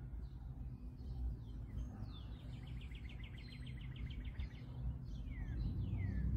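A songbird singing over a low, steady background rumble. It gives a quick downslurred whistle about two seconds in, then a fast trill of about ten notes a second for roughly two seconds, and two more falling whistles near the end.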